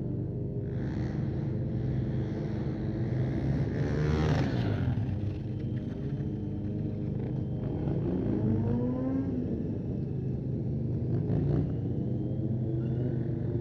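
Stunt motorcycle engines running, with the revs swinging up and down about four seconds in and climbing again around eight to nine seconds in.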